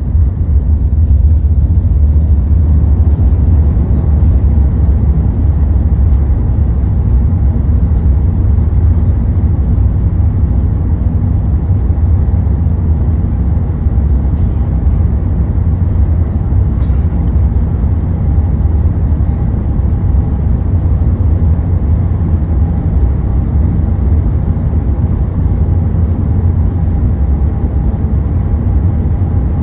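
Steady low rumble of an Airbus A380-800 heard inside the passenger cabin, with a faint steady whine above it.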